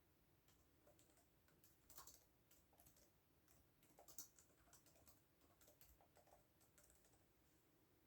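Faint typing on a computer keyboard: an irregular run of soft key clicks, with a few louder keystrokes about two and four seconds in.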